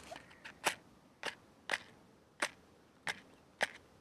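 A small fire of matches and dry leaves popping, six sharp cracks spread irregularly about half a second apart.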